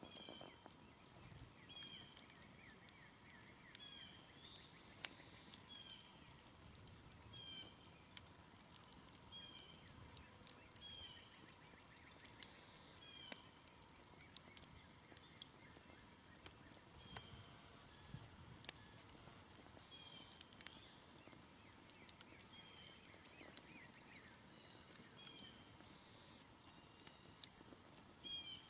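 A smoldering campfire crackling faintly with scattered sharp pops. Behind it, a short high chirp repeats about once a second.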